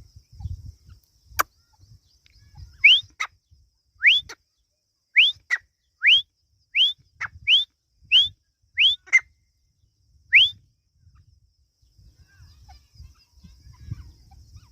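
A teetar (francolin) calling: a series of nine short, loud whistled notes, each sweeping quickly upward, about one every second. A single sharp click comes just before the series.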